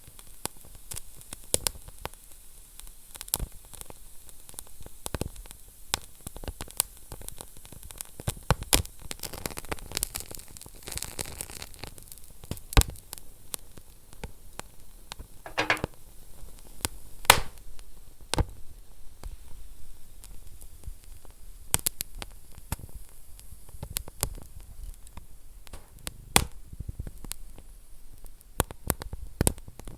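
Wood fire burning in a fireplace: irregular sharp crackles and pops over a steady hiss.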